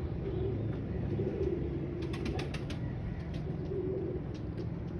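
Domestic pigeons cooing, a run of low, wavering coos, with a quick series of sharp clicks about two seconds in.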